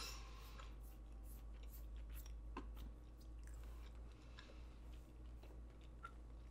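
Faint close-mouthed chewing of food, with a few small mouth clicks.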